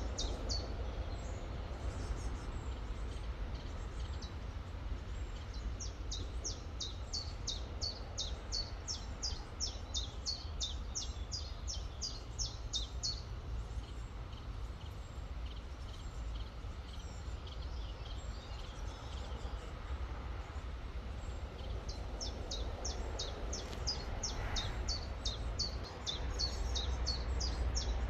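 A small songbird repeating quick, high, down-sweeping chirps, several a second, in a long run that stops about halfway through and starts again near the end. Underneath is the steady rush of a river with a low rumble.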